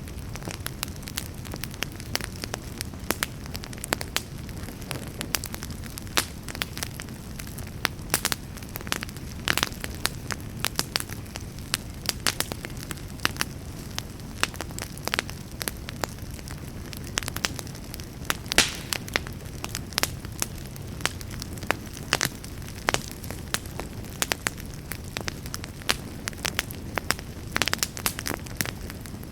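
Campfire burning: a steady low rush under frequent, irregular sharp crackles and pops of burning wood.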